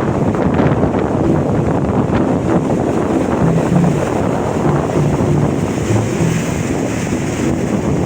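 Sea surf washing in, with wind buffeting the microphone.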